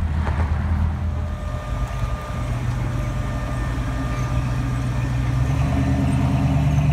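Car engine idling with a steady, deep low rumble that grows a little louder near the end.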